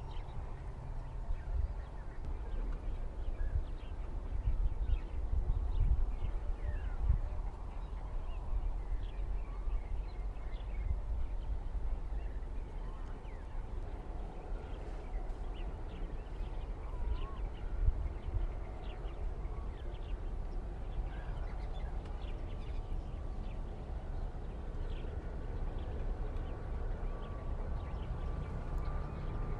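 Outdoor ambience: a low, gusting rumble with a couple of thumps, and scattered short bird chirps above it.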